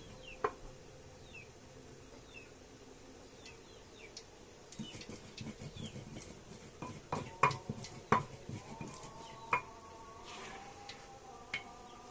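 Spices being ground in a stone mortar with a pestle: a stretch of rough scraping and rubbing with several sharp knocks of stone on stone. Small birds chirp faintly in the background.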